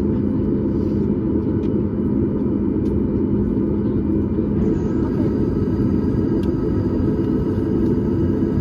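Cabin noise of a Boeing 737 MAX 8 heard from a window seat just behind the wing: a steady rumble from its CFM LEAP-1B jet engines and airflow, with faint steady engine tones over it.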